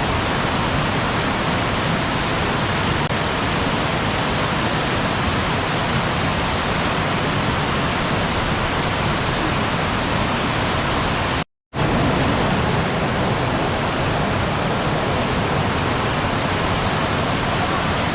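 Waterfall rushing in a steady, even roar of falling water. About eleven and a half seconds in it cuts to silence for a split second, then resumes.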